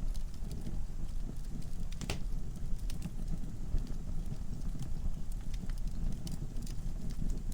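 Wood fire burning in a fireplace: a steady low rumble of flames with irregular sharp crackles and pops from the logs, one louder pop about two seconds in.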